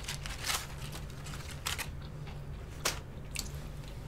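Close-miked eating sounds: a handful of short crisp crunches and clicks, spaced irregularly, from chewing and handling crispy fried food, over a steady low hum.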